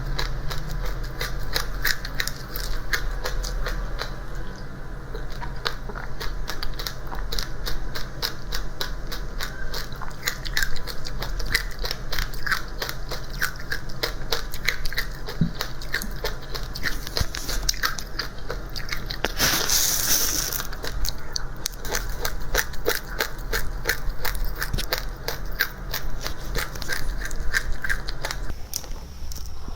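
Dry seeds being chewed and crunched: a dense, continuous run of small crackling clicks, with a short hiss about two-thirds of the way through.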